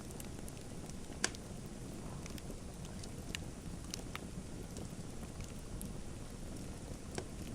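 Wood fire burning in a fireplace: a steady low rumble with a few sharp crackling pops, the loudest about a second in.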